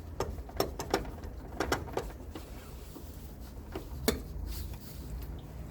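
Irregular metallic clicks and knocks of hand tools, a socket and breaker bar or ratchet, being fitted onto and worked against a suspension control arm bolt, bunched in the first two seconds with one more about four seconds in, over a low steady hum.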